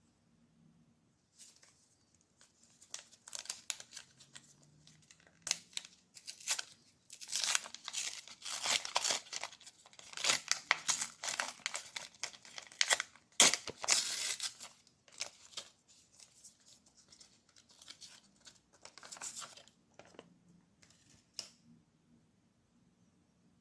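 Packaging being torn open and crinkled by hand, in irregular rustling bursts that are densest and loudest in the middle.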